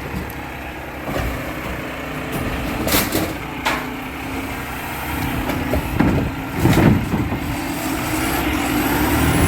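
Garbage truck engine running steadily, with several sharp clanks and bangs over it and a rising mechanical whine in the last few seconds.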